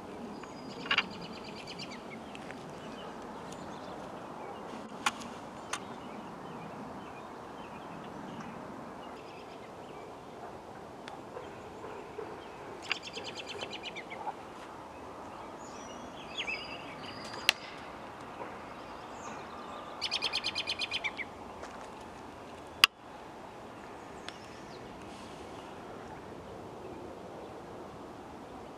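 Outdoor background with birds calling several times, two of the calls being quick buzzy trills. A few sharp clicks are heard, the loudest near the end.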